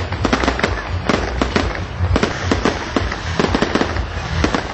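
Fireworks going off in a dense, rapid volley of sharp cracks and bangs, several a second, over a constant low rumble.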